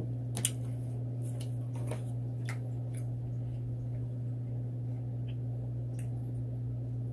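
Close-miked chewing of a seafood boil, with scattered short wet clicks and smacks from mouth and hands, over a steady low hum.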